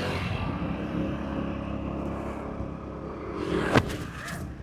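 Motorbike engine running steadily under way, with road and wind noise. A single sharp knock sounds near the end.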